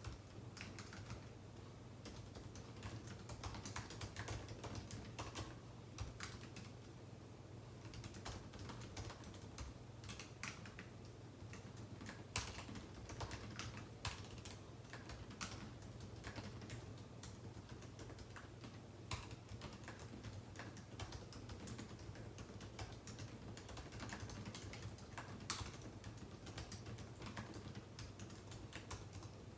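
Typing on a computer keyboard: irregular clusters of key clicks with brief pauses, over a steady low hum.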